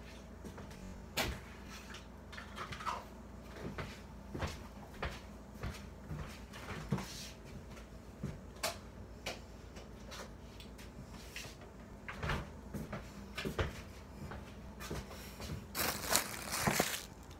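Scattered small clicks, taps and scrapes of a utensil and container being handled while frosting is added to a microwave brownie, with a louder burst of scraping and rustling near the end.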